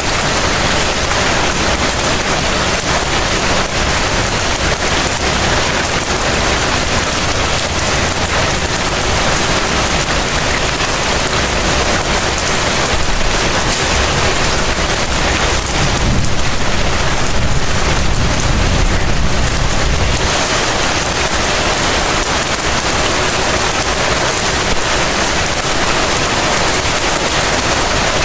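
Heavy rain falling steadily, an even hiss. A low rumble swells about halfway through and dies away a few seconds later.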